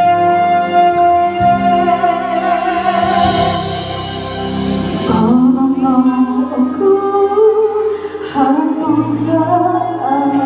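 A duet ballad sung over instrumental backing. A voice holds one long high note for the first few seconds, then the melody drops to lower sung phrases.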